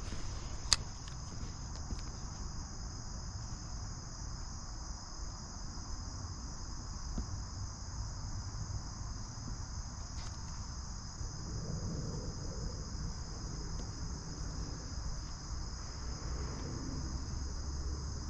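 Steady, high-pitched chorus of insects trilling, with a low rumble underneath and one sharp click about a second in.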